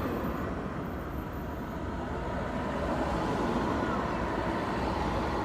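Yamaha R25's parallel-twin engine running steadily, heard together with road noise.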